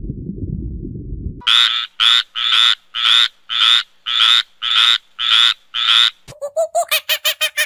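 An animal calling: after a low, muffled rumble, a loud harsh call repeated nine times at about two a second, then near the end a faster series of short, pitched calls at about three a second.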